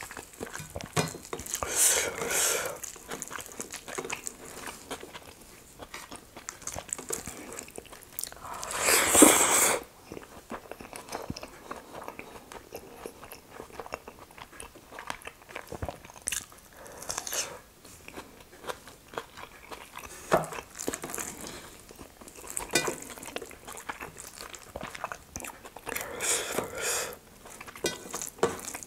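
Close-miked eating by hand: chewing and lip smacks on mouthfuls of rice and nettle dal, with fingers squishing and mixing rice on a steel plate. A few louder rushes of noise stand out, the loudest about nine seconds in.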